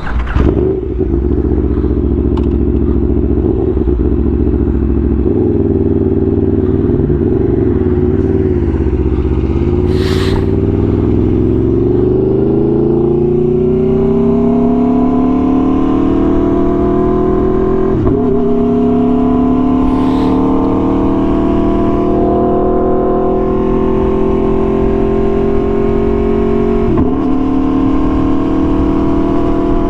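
Aprilia Tuono V4 1100's V4 engine through an SC-Project exhaust, running at a steady low pitch at first, then revving up and holding a higher, steady note, with two brief dips in pitch in the second half.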